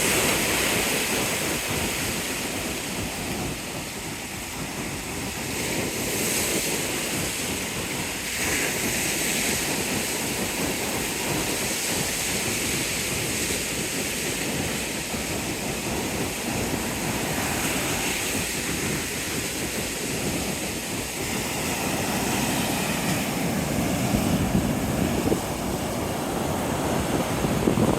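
Ocean surf washing steadily onto the beach, with wind rumbling on the microphone. The wind noise grows stronger over the last few seconds.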